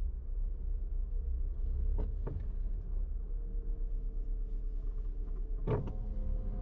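Car's engine and road noise, a steady low rumble, with a few sharp thumps as the car rolls over bumps or joints: two about two seconds in and a louder one near the end.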